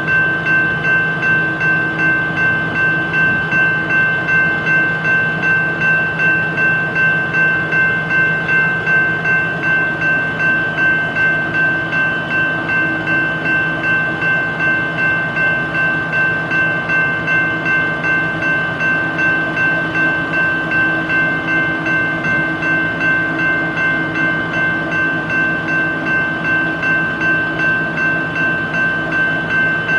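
Train sound: a steady mechanical hum with several held tones, pulsing evenly about twice a second.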